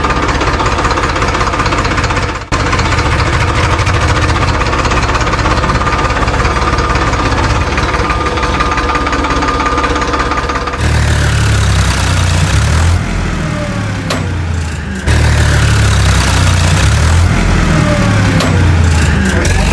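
Miniature tractor's small engine running steadily with a knocking, idling note. About halfway through, heavy electronic bass music comes in over it.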